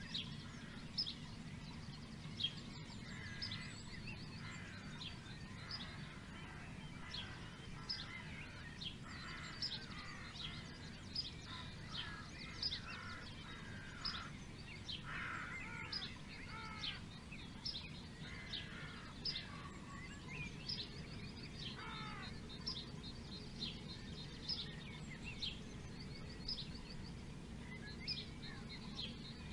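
Several songbirds chirping and singing: many short, high chirps and notes, some sweeping down in pitch, over a steady low background hum.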